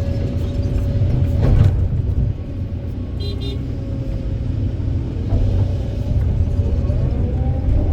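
Kobelco SK200 excavator's diesel engine running under load with a steady low rumble and a whine that rises briefly near the end, and a single clunk about a second and a half in.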